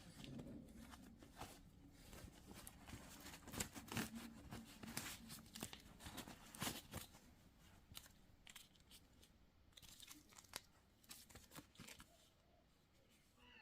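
Packaging being opened by hand: faint tearing and crinkling of wrapping, with scattered crackles and clicks that are busiest in the middle and thin out near the end.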